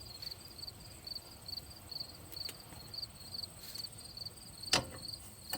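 Crickets chirping steadily in an even rhythm of about two chirps a second, with a single sharp click near the end.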